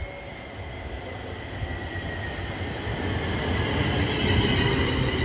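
Passenger train running into the station, growing louder, with a rumble and a high whine that slowly falls in pitch.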